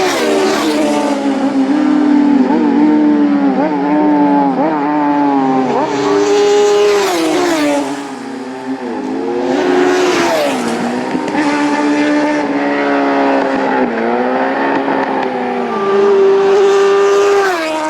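Racing motorcycles, superbikes, running hard, their engine pitch climbing and dropping repeatedly through gear changes and throttle blips, with more than one engine heard at once.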